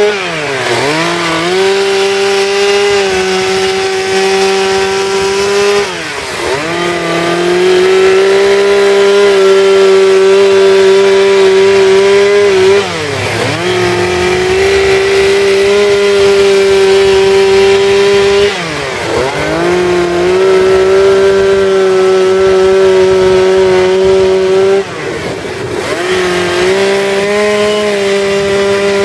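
Two-stroke chainsaw running at high revs while carving wood. Its engine note dips sharply and climbs back about every six seconds, five times in all.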